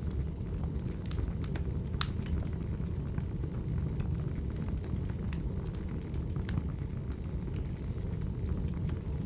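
Firewood burning: a wood fire crackling over a low steady rumble, with scattered sharp pops, the loudest about two seconds in.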